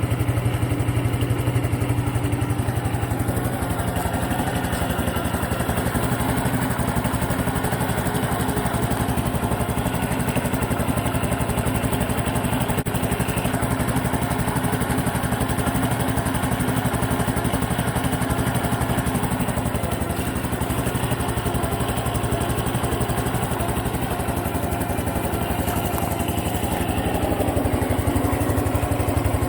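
Honda Super Cub Pro's single-cylinder four-stroke engine idling steadily, a fast even beat: the abnormal engine noise that the owner is recording.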